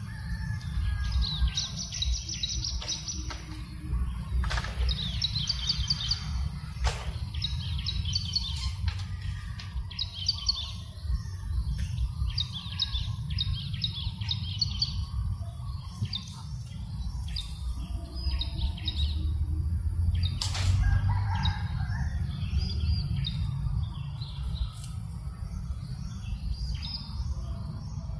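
Small birds chirping and twittering in quick runs throughout, over a steady low rumble of breeze.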